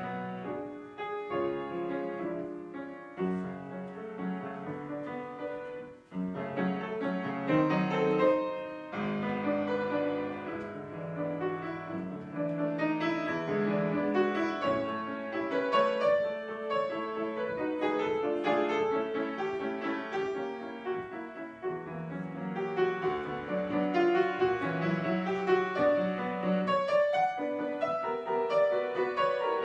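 Piano playing a classical piece, a continuous flowing passage of notes.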